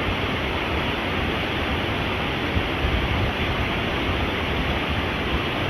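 A mountain stream rushing steadily over rocks, an even, unbroken rush of water.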